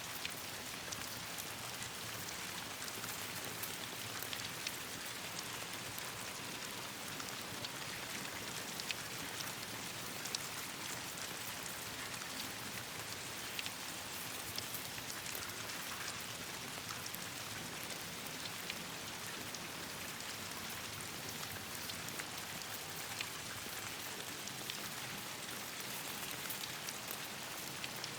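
Steady rain falling, with a campfire crackling: an even hiss of rain dotted with frequent small, sharp crackles.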